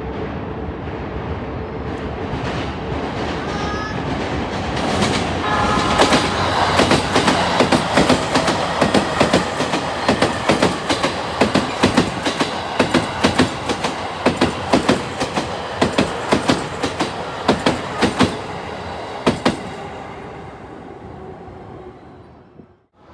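JR East electric limited express train passing at speed: a rising rumble, a short horn about five seconds in, then a long run of sharp wheel clacks over rail joints and points before the sound fades away.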